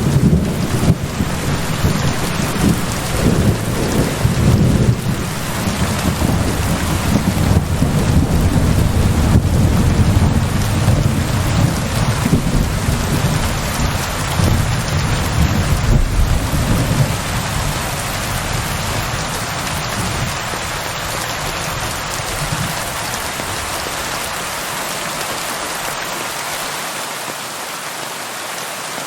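Steady rain falling with a long, low thunder rumble rolling under it; the thunder fades away after about two-thirds of the way through, leaving the rain on its own.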